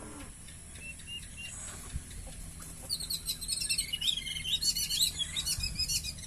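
Small birds chirping: a few faint high chirps at first, then from about three seconds in a busy run of quick, high-pitched chirps.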